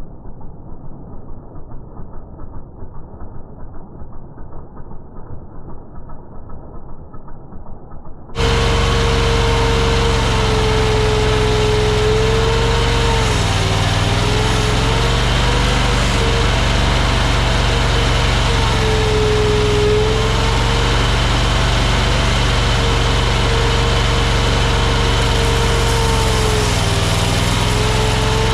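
Mini tracked skid steer's engine running steadily at working speed, with a whining tone that sags in pitch briefly several times as the machine takes load. For the first eight seconds the sound is muffled and dull, then it switches abruptly to loud and clear.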